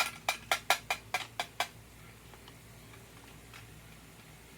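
A quick run of about eight sharp clicks and taps of small plastic toy kitchen pieces, within the first second and a half or so.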